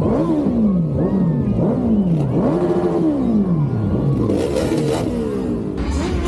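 Superbike engine revved in repeated throttle blips: the pitch climbs sharply and falls back about once a second, five or so times, with one longer rev about halfway through.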